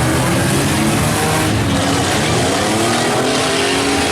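Engines of several compact pickup trucks and vans running hard and revving at once in a demolition derby, their pitches rising and falling over a steady loud din.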